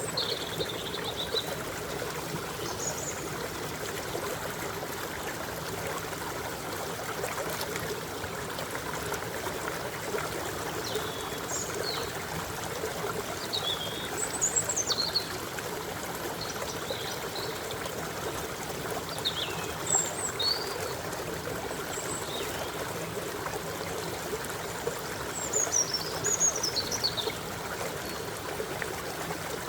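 A stream trickling and babbling steadily over rocks, with short high chirps from birds now and then, a few in quick succession near the middle and again near the end.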